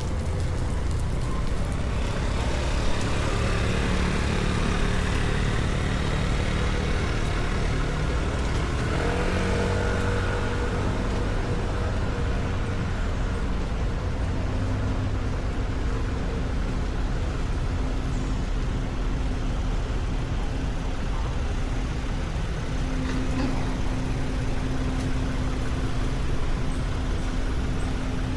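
A motor vehicle's engine running steadily with road and traffic noise: a constant low rumble, a brief rising whine about nine seconds in, and a steady hum through the second half.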